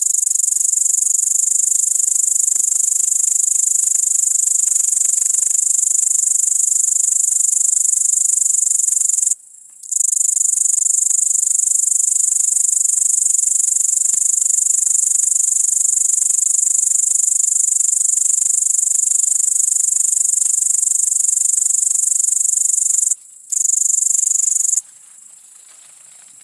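Great green bush-cricket (Tettigonia viridissima) stridulating: a loud, continuous, shrill high-pitched buzz. It breaks off twice for under a second and stops shortly before the end.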